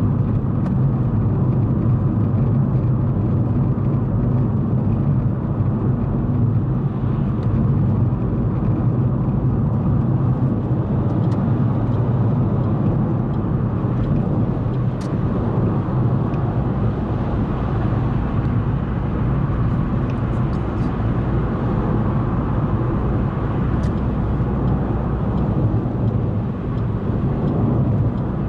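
Car driving along a highway: steady engine and tyre-on-road noise with no breaks.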